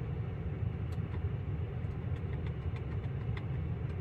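Car engine idling: a steady low rumble, with a couple of faint clicks about a second in and again past three seconds.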